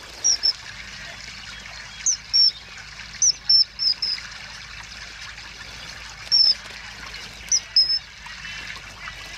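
Short, high bird chirps, each sliding down in pitch, coming singly or in quick runs of two to four, over a steady trickle of running water.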